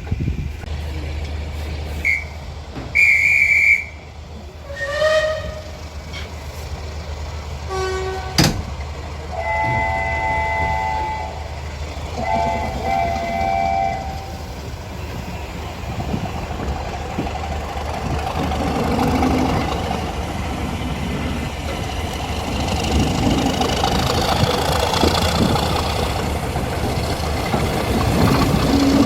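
A train whistle blows several times: a short high blast, a falling glide, then two longer blasts of several notes at once. The train's running noise of wheels on rails then builds steadily and grows louder.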